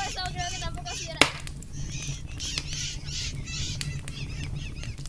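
Birds squawking in a rapid run of harsh calls, with one sharp crack about a second in and a steady low rumble underneath.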